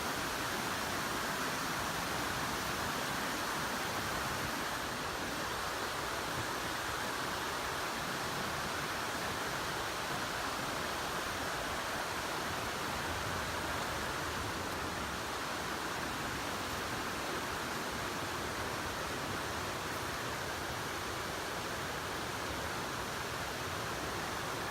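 A waterfall's rushing water, a steady even roar.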